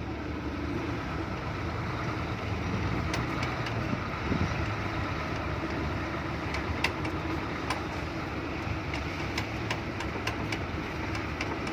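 Diesel engine of a loaded Hino F18 ten-wheel truck running steadily at low revs, with a few scattered sharp clicks.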